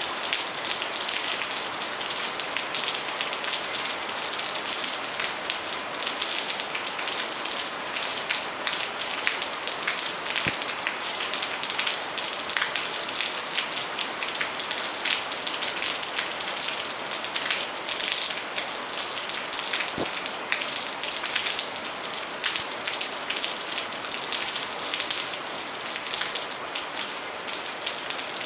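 Steady rain falling, a dense even hiss of many small drop patters. A couple of heavier single drops stand out, about ten and twenty seconds in.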